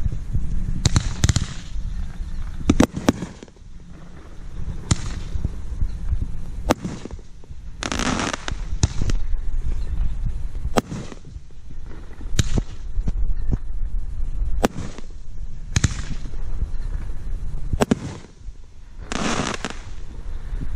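Fireworks going off: a run of sharp bangs at irregular intervals, with two longer noisy bursts of about a second, one about eight seconds in and one near the end.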